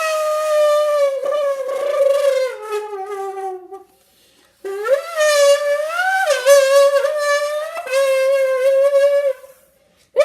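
A child imitating a Lamborghini engine by voicing a "woo" into a squeezed can: two long, horn-like notes, the first sliding down in pitch and the second rising and dipping like revs, with a third starting near the end.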